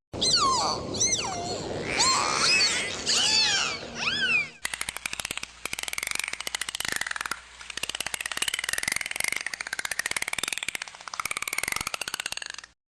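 Dolphin vocalizations. First comes a series of rising-and-falling whistles for about four and a half seconds, then fast trains of clicks that merge into a buzzing, wavering pulsed call until near the end.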